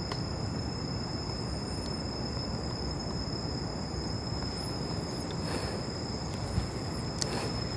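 Night outdoor ambience: a steady high-pitched insect drone, like crickets, over a low rumbling background noise, with a couple of faint clicks.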